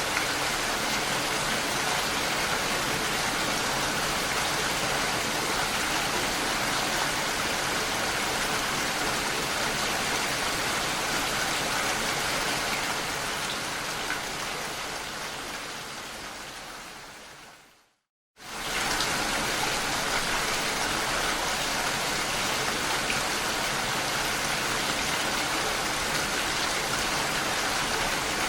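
Steady rain falling, an even hiss that fades out over several seconds to a brief moment of silence about two-thirds of the way through, then comes back in abruptly with a little more low rumble.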